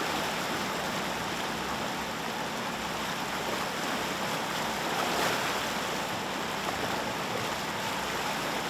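Steady rushing of fast-flowing floodwater, an even, unbroken roar of water.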